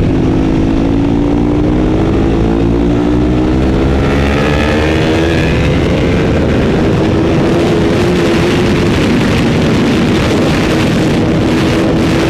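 Racing motorcycle's engine at speed, heard onboard: the revs rise over the first few seconds, then hold high and wavering with wind rush.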